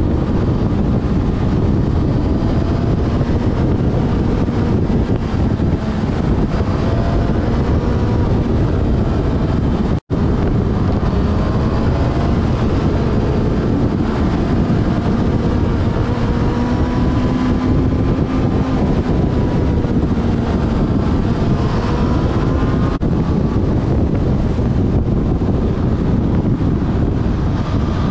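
Wind buffeting a helmet- or bike-mounted action camera at road speed, the loudest sound, over a Yamaha FZ6 Fazer's inline-four engine note that rises and falls with the throttle. The sound drops out for an instant about ten seconds in.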